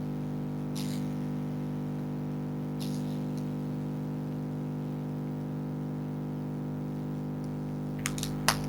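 Freezer humming steadily, a dense stack of even tones, with faint crunches of foxes chewing food now and then and a few sharper clicks near the end.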